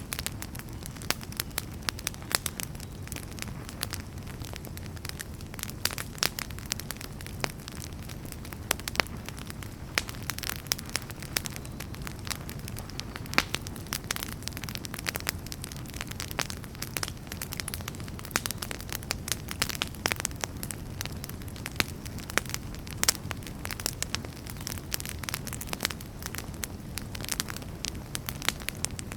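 Wood fire in a fireplace burning steadily, with a low rumble of flames and frequent sharp, irregular crackles and pops from the burning logs.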